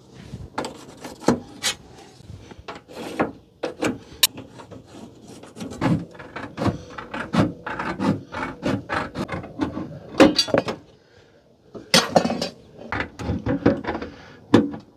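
Hand sheet-metal work on a copper pan: irregular clacks, taps and scraping of hand tools (tongs) against the copper sheet.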